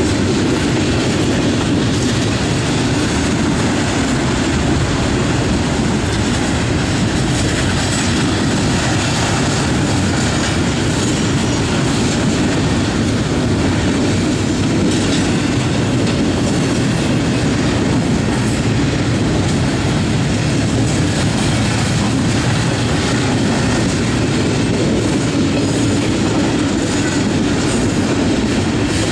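Norfolk Southern double-stack intermodal container train passing: a steady, even noise of steel wheels on rail as the well cars roll by.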